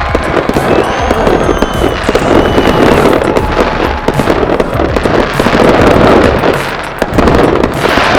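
A 144-shot aerial finale cake firing a rapid, continuous barrage of shots and bursts, with a short lull near 7 seconds before the firing picks up again.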